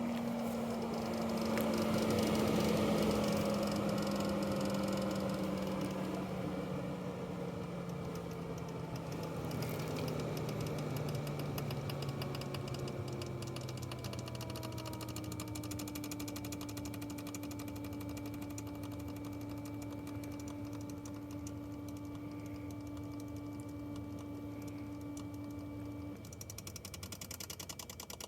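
Tesla Model 3 Long Range front HVAC blower fan slowing down, its hum falling gradually in pitch, with a fast clacking rattle from the front vent that comes through more clearly near the end. The rattle is a fault that is loudest as the fan is about to stop.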